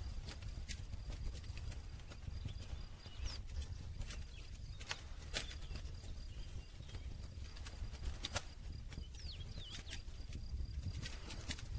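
Wood campfire crackling, with irregular sharp pops and snaps over the low steady rumble of the burning fire.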